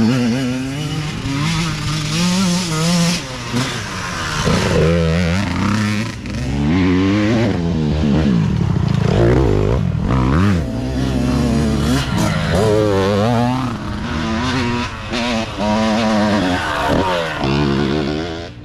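Several youth dirt bikes running at once, their small engines revving up and down in overlapping rising and falling pitches.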